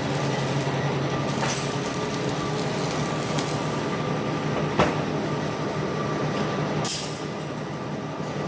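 Steady mechanical workshop noise with a constant hum, a sharp knock about five seconds in, and a short hiss near the end.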